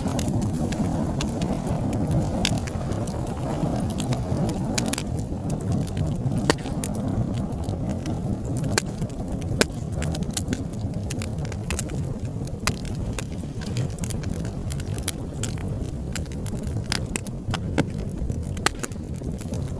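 Fire burning in a fireplace: a steady low rumble of flames with frequent sharp crackles and pops at irregular moments.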